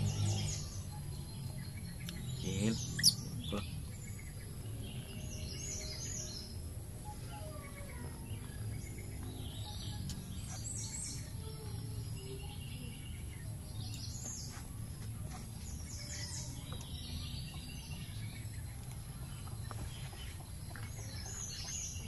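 Birds chirping in short clusters every few seconds over a low steady background hum, with one sharp click about three seconds in.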